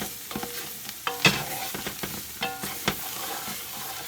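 Chopped onion and bell pepper sizzling in a brown roux made with bacon grease, while a spoon stirs and scrapes against the pot in a few sharp strokes, the strongest about a second in.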